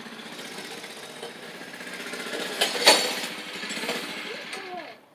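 Mini bike's small engine running with a steady pulse, getting louder, with a sharp clack about three seconds in; near the end it winds down in pitch and cuts off.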